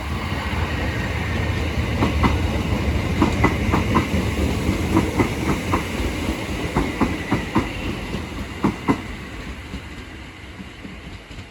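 Class 455 electric multiple unit running into the station, a steady rumble with its wheels clicking over the rail joints for several seconds, then the sound dies away near the end as it slows.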